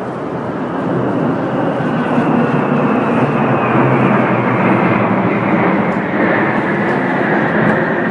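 Fighter jet flying over: a loud, steady roar that swells about a second in, with a whine above it sliding slowly down in pitch.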